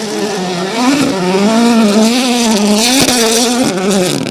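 Rally car engine running at high revs, its pitch rising and falling as the throttle comes on and off, with a short hiss about three seconds in.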